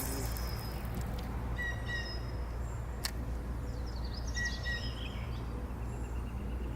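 Blue jay calling twice: a short call about a second and a half in, and a longer, more complex one around four and a half seconds. A steady low rumble runs underneath, with a single click near three seconds.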